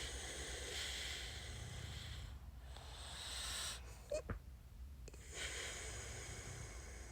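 A person breathing audibly close to the microphone, in slow swells of breath with short gaps between them, and a brief small vocal sound about four seconds in.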